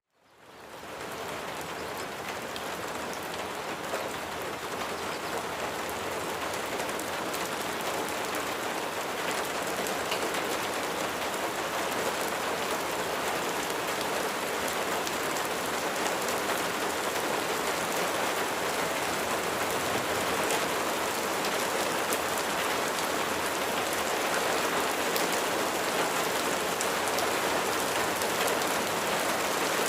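Steady rain falling, a dense even hiss flecked with small drop ticks. It fades in from silence over about the first second, then holds level.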